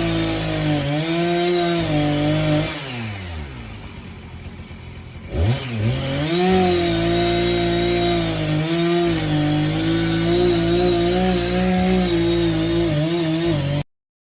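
A motor running with a steady hum, winding down about three seconds in and speeding back up about two seconds later, then cutting off abruptly near the end.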